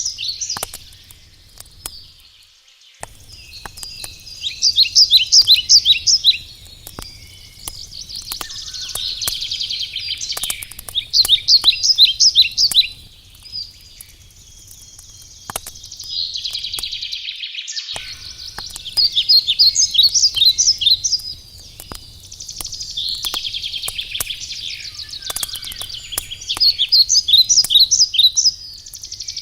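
Songbirds singing in short, rapid trilled phrases every few seconds, over the scattered crackle and pops of a wood campfire.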